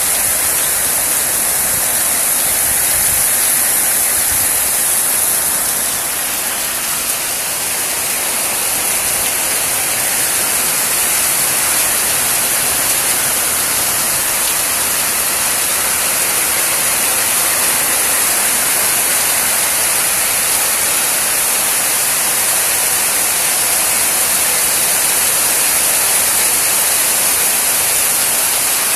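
Steady rainfall, an even hiss that carries on unbroken with no pauses or individual drops standing out.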